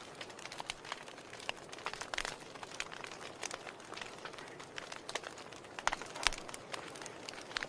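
Wood fire burning in a fireplace, crackling: irregular sharp snaps and pops over a soft steady hiss, with a few louder pops about two seconds in and around six seconds in.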